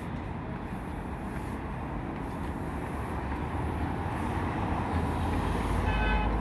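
Steady road traffic noise from a busy boulevard, with a deeper rumble building toward the end and a brief high-pitched tone just before the end.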